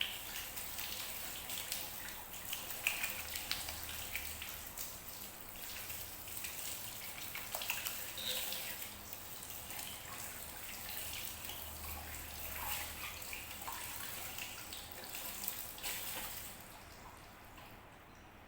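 Running water splashing, as in a hair rinse at a shampoo basin, with a patter of small drips and splatters; it stops abruptly a couple of seconds before the end.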